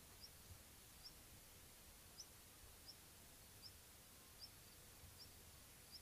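Near silence in the open, with a small bird repeating a short, high, upward chirp about every three-quarters of a second.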